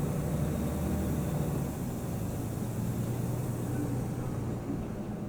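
Scania OmniTown bus engine running with a steady low drone.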